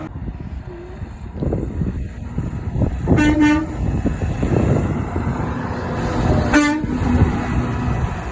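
Semi truck's air horn sounding two short blasts about three seconds apart, over the steady noise of a passing truck's engine and tyres.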